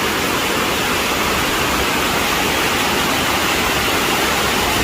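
Waterfall: water pouring down a rock cascade in a loud, steady rush.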